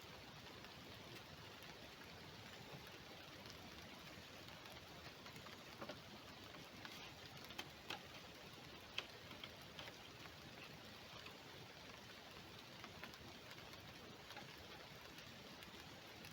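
Near silence: a faint steady hiss with scattered light ticks and clicks, a few louder ones around the middle.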